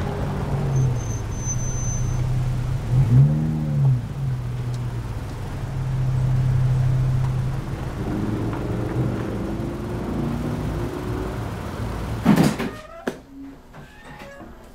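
A car engine idling with a steady low hum that briefly rises and falls in pitch about three seconds in. About twelve seconds in, a loud thud cuts it off, leaving a quieter room with a few clicks and knocks.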